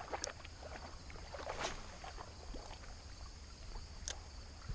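Faint creek water with a few sharp clicks and knocks, about a second or two apart.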